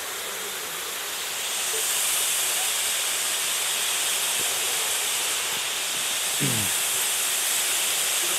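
Waterfall rushing in a steady roar of noise, growing louder and brighter about a second and a half in.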